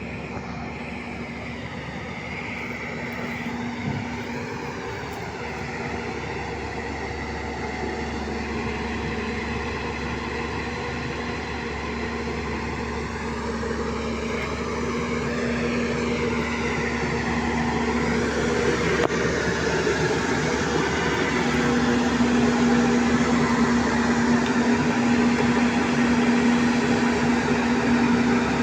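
Heavy diesel engine of a backhoe loader or tractor running steadily with a constant hum, growing gradually louder.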